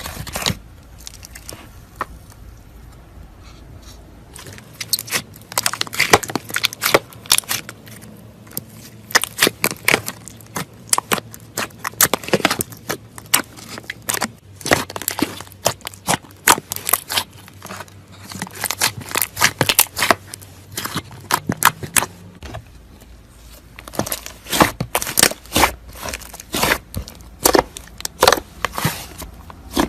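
Butter slime being pressed, stretched and poked by hand, giving irregular runs of small wet clicks and crackles. After one click at the start it is quiet for about four seconds, then the clicking runs on with a short lull near the end.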